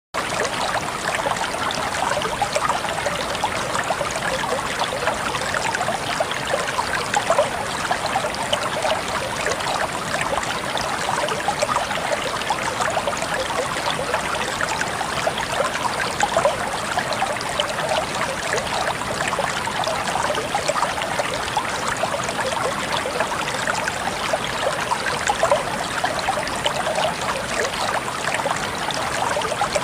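Stream of water flowing and trickling steadily, with a dense patter of small splashes and bubbles.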